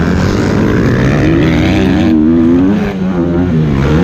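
Motocross dirt bike engine revving hard, its pitch climbing, dropping as the throttle comes off or it shifts near three seconds in, then climbing again.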